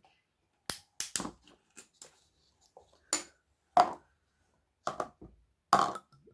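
Handling noises from a drink bottle being opened: about ten short clicks and knocks with gaps between them, the loudest two in the second half.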